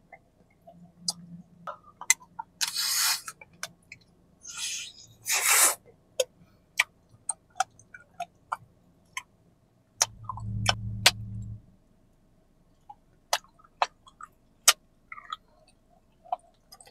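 Close-up mouth sounds of biting and chewing a wax candy: scattered sharp clicks and crackles of the wax shell, with two short sucking hisses in the first six seconds. A low muffled rumble comes about ten seconds in.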